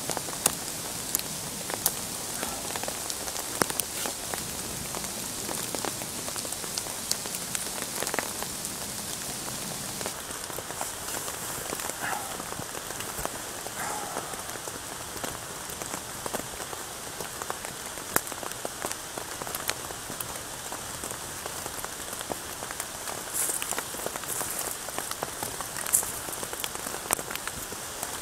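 Steady rain falling in woodland, an even hiss with many scattered sharp ticks of individual drops.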